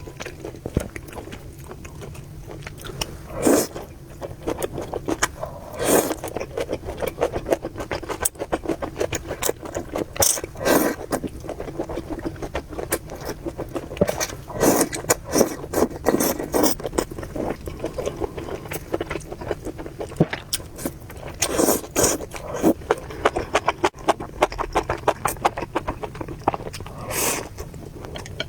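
Close-miked eating sounds from a bowl of spicy noodles and rice-noodle soup: continual wet chewing clicks and lip smacks, with several louder, longer slurps scattered through.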